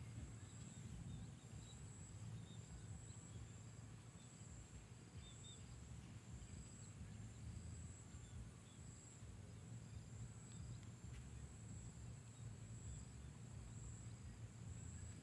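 Faint, steady high-pitched trill of insects, likely crickets, with a few faint chirps over a low background rumble.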